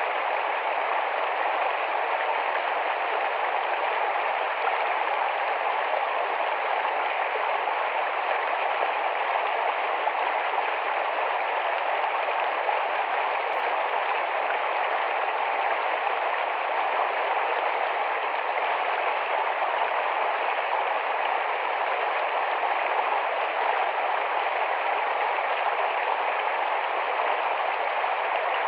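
Shallow forest stream running fast over stones, a steady rushing and babbling of water.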